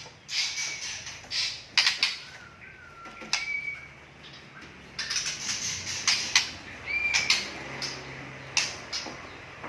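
White-rumped shama (murai batu) singing: rapid bursts of harsh, scratchy chattering notes, broken up by a few short clear whistles.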